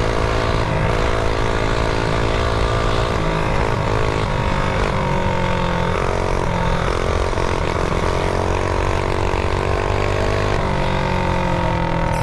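Mini bike engine running under way, its pitch shifting up and down in steps as the throttle changes, over a steady low wind rumble on the helmet mic.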